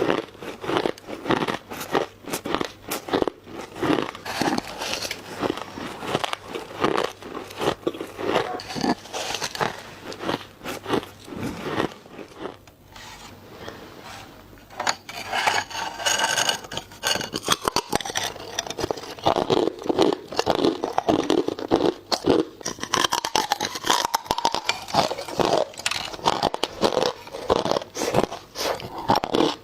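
Ice being bitten and crunched between the teeth: rapid crisp cracks and crunches in quick succession, easing off briefly around the middle before picking up again.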